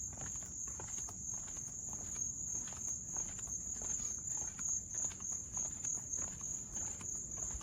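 Footsteps walking at about two steps a second, over a steady high-pitched insect buzz.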